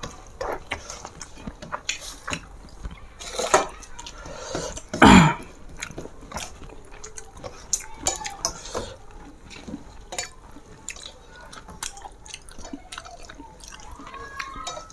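Close eating sounds of rice with fish curry: many wet smacks and clicks of mouth and food, with one louder sound about five seconds in that glides down in pitch.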